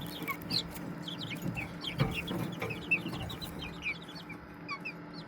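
A group of young poultry chicks peeping: short, high, downward-sliding peeps, several a second, over a faint steady low hum.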